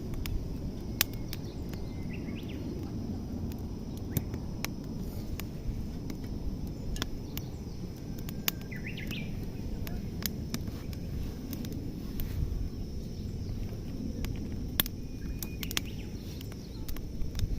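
Outdoor ambience with a steady low wind rumble, birds chirping briefly three times, and scattered sharp clicks throughout.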